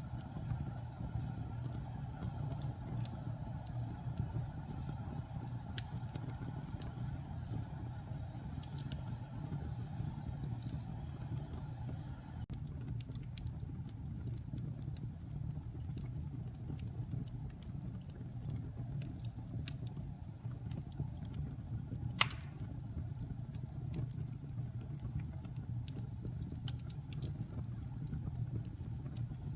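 Wood fire burning in a fireplace: a steady low roar of the flames with scattered small crackles and one much louder pop about three quarters of the way through.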